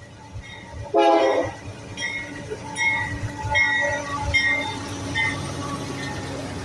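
Freight train led by a C44ACM locomotive: a short, loud horn blast about a second in, over the train's steady rumble. A short high ringing tone repeats roughly once a second.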